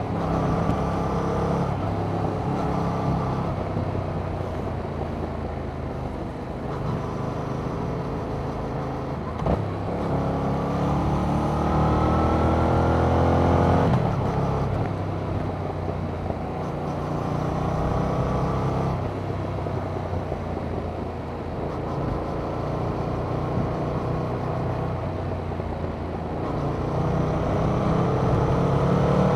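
2021 Yamaha MT-07's 689 cc crossplane parallel-twin running through its stock exhaust under riding load. Its pitch rises steadily under throttle for about four seconds in the middle, drops sharply as the rider shuts off, and climbs again near the end.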